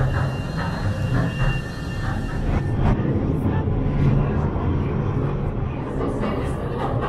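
Southend Pier Railway train running along the pier, heard from inside the carriage: a steady low rumble with scattered short knocks.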